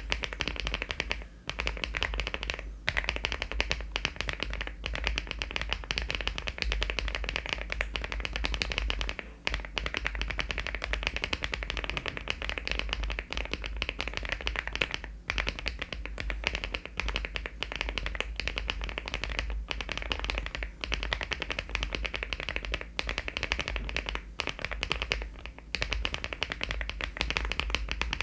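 Fast, continuous typing on a LEOBOG Hi75 aluminium mechanical keyboard fitted with HMX switches and Cherry-profile keycaps: a dense run of key clacks, broken by a few short pauses.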